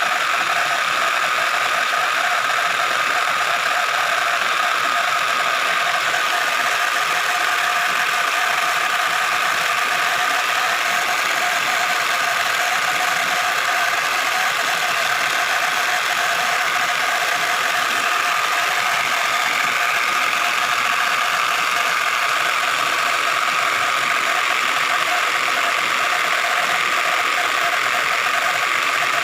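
Homemade cigarette-making machine built from scrap parts running steadily, a constant mechanical whine with rattling that does not change.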